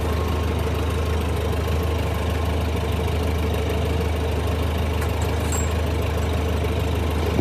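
An engine or motor-driven machine running steadily at an even speed, with a strong low hum under a dense hiss.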